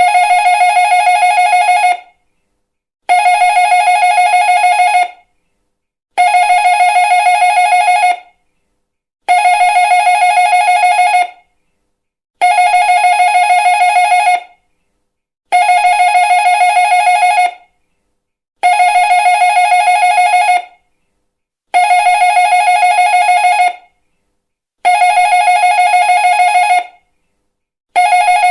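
Electric doorbell ringing in two-second bursts of rapid trilling, the same ring repeated about ten times at an even spacing of roughly three seconds.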